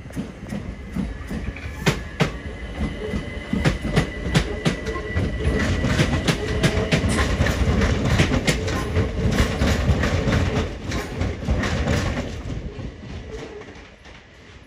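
Southern Class 377 electric multiple unit running over the pointwork, its wheels clicking rapidly over rail joints and crossings, growing louder and then fading near the end as it moves away. A faint high wheel squeal sounds in the first few seconds.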